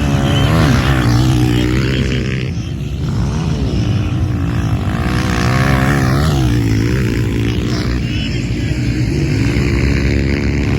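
Racing motorcycle engines in the CG class, single-cylinder four-stroke Honda CG motorbikes, revving up and down as several bikes race past on the motocross track. The engine pitch rises and falls repeatedly, with more than one engine heard at once.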